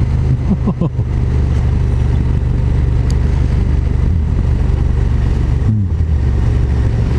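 KTM 1290 Super Duke GT's V-twin engine running steadily under way. Its note briefly dips and settles lower about two-thirds of the way in.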